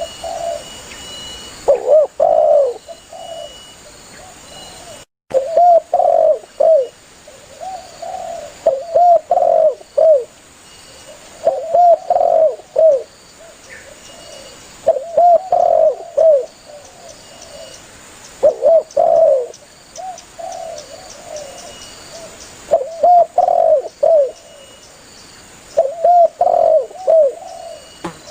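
Spotted dove (tekukur) cooing: repeated phrases of several low, looping coos, one phrase every few seconds, with a brief dropout about five seconds in.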